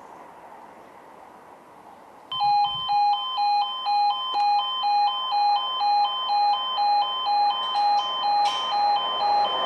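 Railway level crossing warning alarm starting up about two seconds in: an electronic two-tone yodel alternating between a lower and a higher note about twice a second. This signals that a train is approaching.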